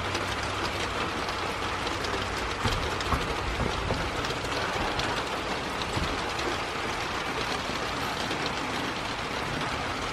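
Thunderstorm noise: a steady rush of rain with low rumbling swelling a few times.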